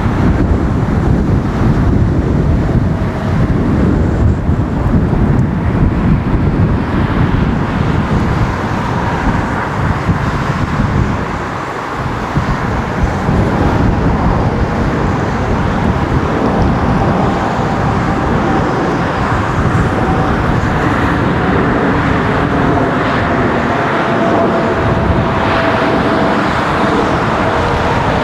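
Jet engines of a Boeing 787-10 Dreamliner passing: a loud, steady rumble. In the second half the rumble eases and a faint engine whine of a few steady tones comes through.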